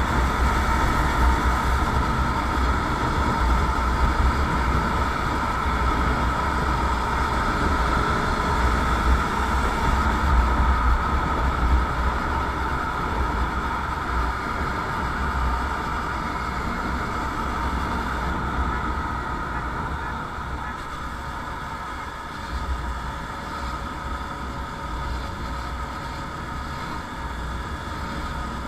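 Motorcycle on the move, its engine running steadily under heavy wind buffeting on the microphone. The sound eases off gradually over the second half.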